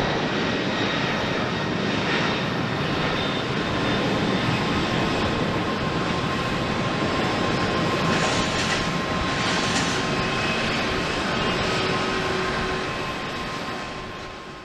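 Jet airliner engines running loud and steady, a dense rushing noise with thin high whines over it, easing away near the end.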